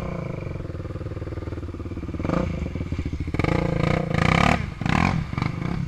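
Small off-road engine of an ATV or dirt bike idling steadily, then revved in several rising and falling bursts from about two seconds in.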